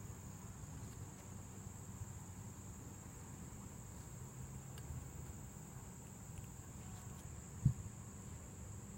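Crickets trilling in one steady, unbroken high-pitched note, with a single soft low thump about three-quarters of the way in.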